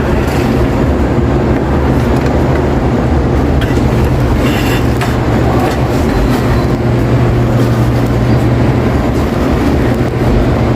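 Supermarket butcher and deli-counter ambience: a steady low hum under a dense, even background din, with a brief sharper clatter about four and a half seconds in.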